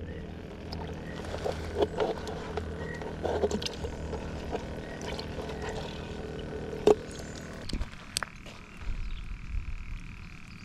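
Frogs croaking in the background, with scattered sharp clicks and knocks of handling close by. About eight seconds in, the low hum drops away and a steady high-pitched trill is left.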